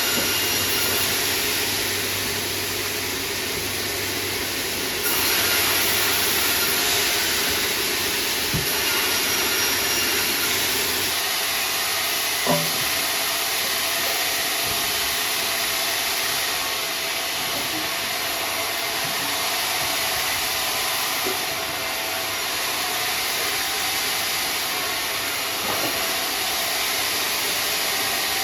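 Sawmill saw running and cutting timber: a steady hissing machine noise, with a single brief knock near the middle.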